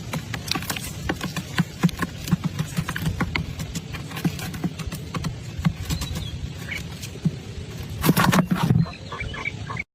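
Birds in a cage trap: a steady run of quick taps and scrabbling, a few faint chirps, and one louder flurry of rustling about eight seconds in.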